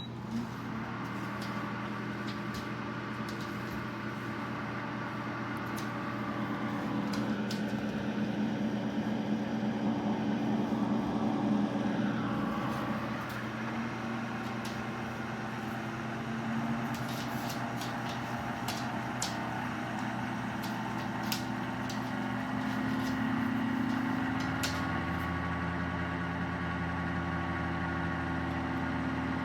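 Small dehumidifier's motor running with a steady hum whose pitch steps higher twice. The owner hears the climbing motor pitch in a unit that seems to run but collects no water, and suspects a fault.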